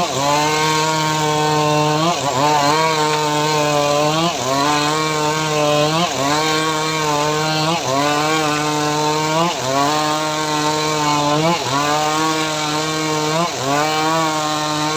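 Chainsaw engine of a homemade chainsaw mill running under load, ripping a mahogany log. Its pitch sags and recovers about every two seconds as the cut loads the engine.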